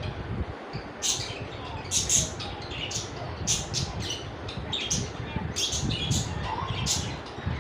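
Budgerigars chirping: short high chirps, about two a second, over a low steady rumble.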